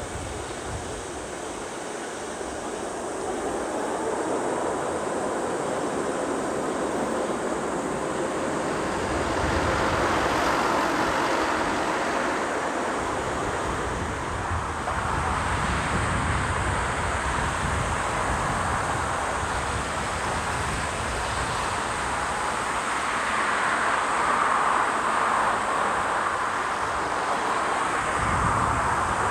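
Jet airliner passing close overhead, its engine noise building over the first several seconds and then staying loud. Gusts of strong wind buffet the microphone.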